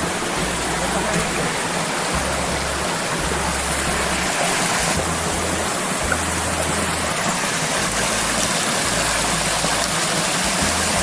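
Strong wind blowing over the microphone: a steady rushing hiss with gusty low rumbles coming and going every second or two.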